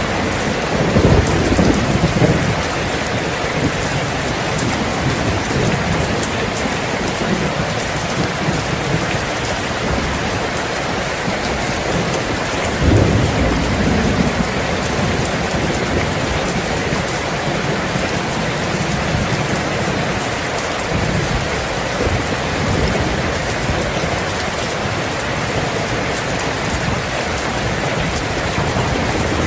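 Steady heavy rain falling, with low rolls of thunder swelling about a second in and again about halfway through.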